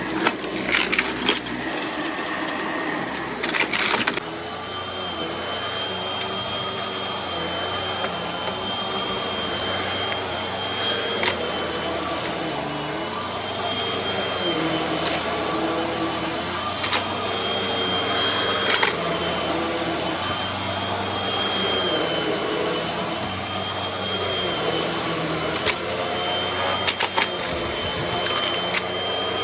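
Vacuum cleaner running steadily with a high whine, picking up debris that crunches and clicks now and then.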